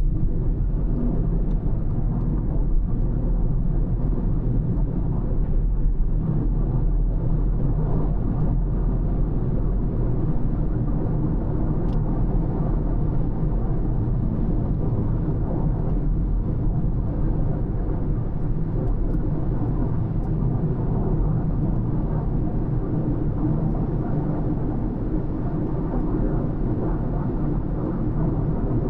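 Car driving on the road: a steady low rumble of tyres and engine.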